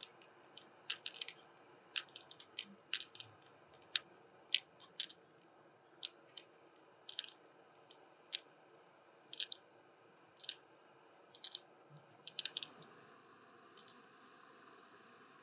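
Sharp, irregular clicks and taps, about one or two a second, with faint squishing, thinning out near the end. These are the sounds of hard shell and pearls being handled while a freshwater mussel is opened for its pearls.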